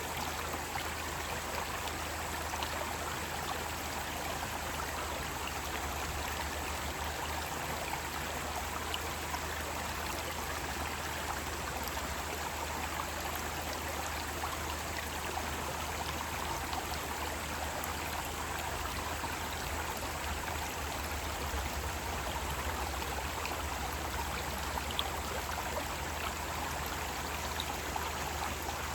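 Mountain stream rushing steadily over rocks, an even, unbroken flow of water.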